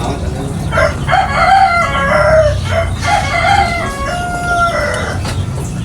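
Rooster crowing: one long crow in several linked parts, starting about a second in and lasting about four seconds.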